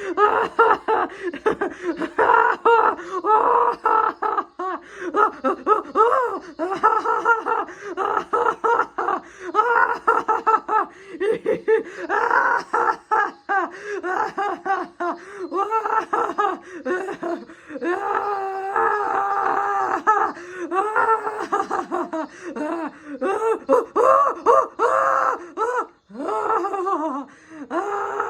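A pet bird vocalizing almost without pause: a long run of wavering, voice-like calls and squawks that bend up and down in pitch.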